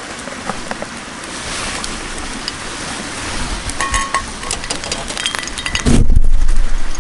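Metal cookware clinking, a utensil knocking and scraping against a pot or pan, over a steady hiss of food sizzling. Near the end a loud low rumble takes over for about a second.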